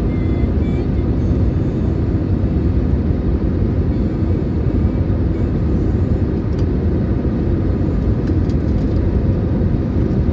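Steady low rumble inside the passenger cabin of an Airbus A320neo airliner, a mix of engine and airflow noise with no distinct events.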